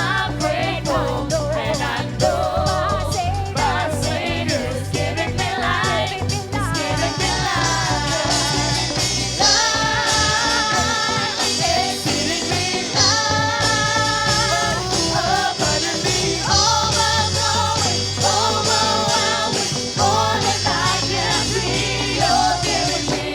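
Live gospel worship song: singers holding long sung notes over a band with steady bass.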